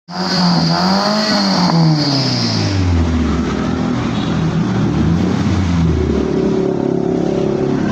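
Mitsubishi Lancer with an aftermarket racing exhaust (header and HKS muffler) running loud. The engine's pitch climbs about a second in, then falls away over the next few seconds and settles into a steadier, lower note.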